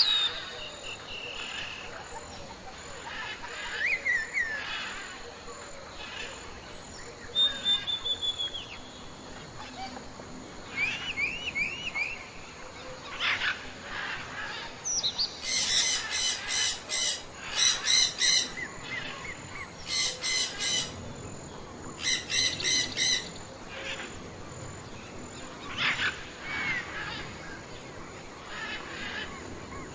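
Several birds chirping and singing, with short whistles and quick rising or falling notes scattered throughout. In the middle come four bouts of a loud, rapidly pulsed call.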